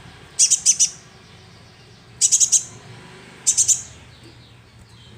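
Sunbird calling: three short bursts of rapid, very high chirps, each of three or four quick notes, spaced about a second and a half apart.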